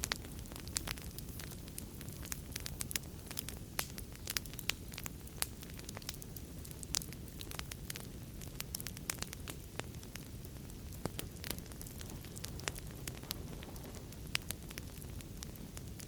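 Wood fire in a fireplace: a steady low rumble of flames with frequent sharp, irregular crackles and pops.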